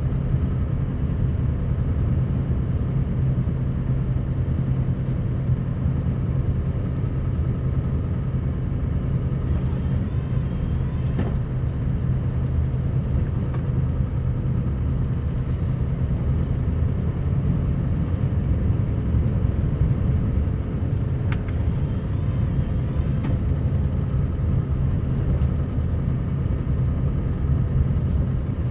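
Scania R560 truck's V8 diesel engine running steadily under way, a constant low drone with no change in pitch.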